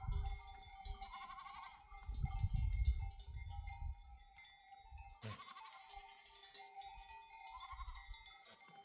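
Sheep bleating a few times, with bells clinking among the flock. Low wind rumble on the microphone is loudest about two to four seconds in, and there is one sharp click a little past the middle.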